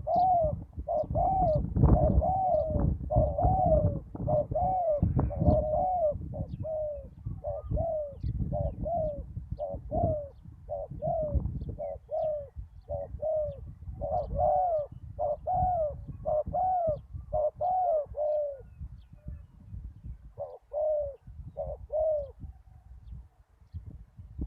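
Spotted dove cooing over and over in a quick series of short arched coos, pausing briefly near the end before a few more. A low rumbling noise runs under the first half.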